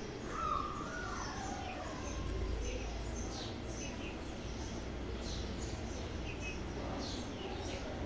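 Green parrot chicks chirping: many short, high, falling chirps, with a lower gliding call about half a second in.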